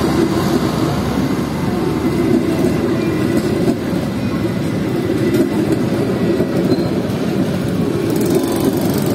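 Passenger train coaches rolling past at close range: the steady, unbroken noise of steel wheels running on the rails.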